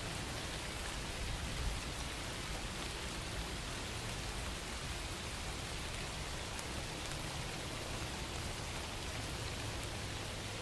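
Steady rain-sounds track: an even hiss of falling rain with faint scattered drop ticks.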